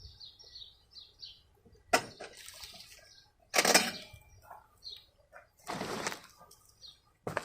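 Handling noises from mower parts being worked on: a sharp click about two seconds in, two louder noisy bursts of handling, and another click near the end. A small bird chirps a quick series of short notes at the start.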